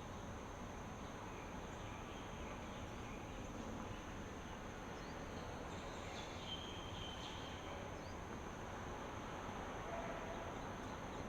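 Outdoor ambience: a steady high insect drone over an even rushing hiss, with a few brief chirps about six seconds in.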